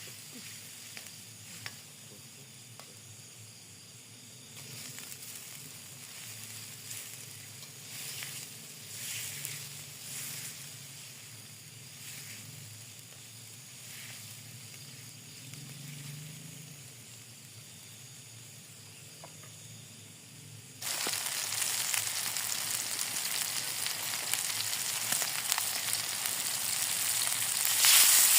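Food sizzling in hot oil in a pan: a quiet simmering hiss with a few faint clicks, then about two-thirds of the way through the sizzle jumps suddenly much louder, as when food goes into the hot oil, and stays loud.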